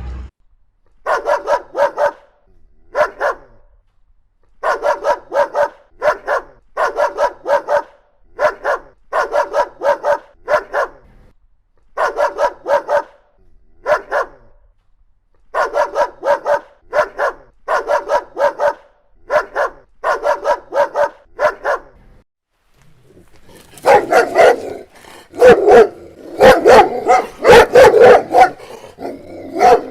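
A boxer barking repeatedly in quick clusters of two to four barks. After a short pause a Doberman starts barking, louder and in faster, denser runs.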